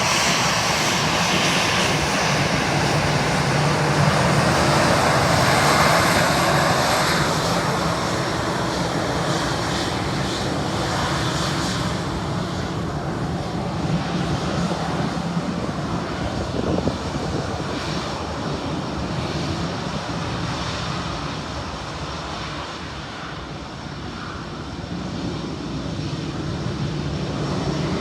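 Air France Airbus jet engines at takeoff power. The loud roar is at its loudest a few seconds in, then slowly fades with a falling whine as the airliner climbs away, leaving a low rumble.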